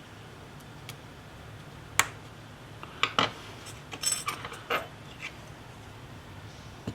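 A handful of sharp clicks and taps of small hard objects, with a brief metallic jingle about four seconds in, over a low steady hum.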